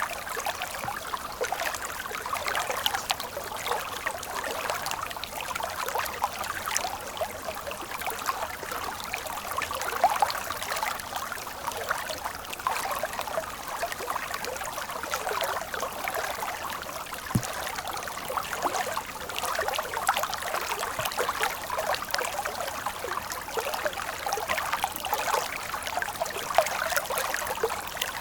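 Stream water flowing steadily, with many small splashes and gurgles and little deep rumble.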